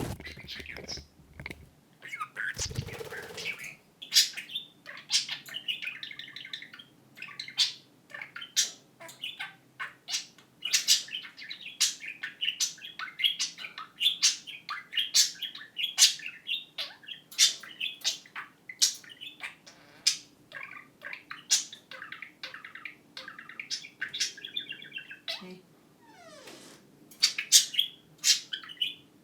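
Pet budgerigars chattering and warbling with rapid, sharp chirps. The chatter includes talking-budgie mimicry: human phrases and, about twenty seconds in, an imitated phone ringtone.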